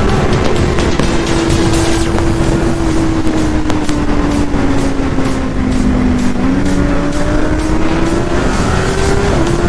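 Inline-four sportbike engine holding high revs at a steady pace, its pitch sagging slowly, then climbing again as it picks up in the last few seconds, under heavy wind noise.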